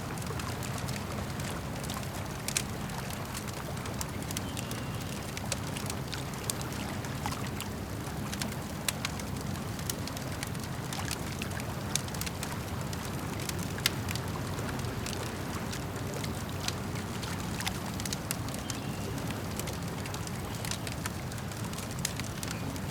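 Campfire crackling, with frequent sharp pops and snaps, over a steady low wash of lake water.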